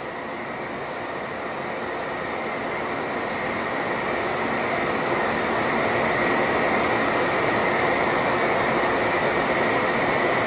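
800 series Shinkansen train pulling away and gathering speed, heard from inside the car's vestibule deck: running noise from the wheels and drive growing steadily louder, with a steady high whine on top.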